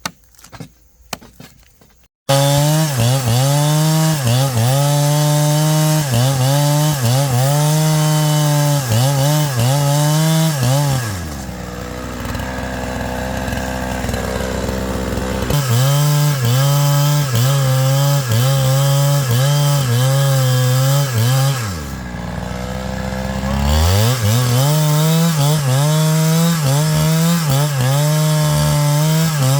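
A few faint chopping knocks, then a two-stroke chainsaw running hard, its pitch wavering as it cuts into wood. Twice it drops back to idle for a few seconds before revving up and cutting again.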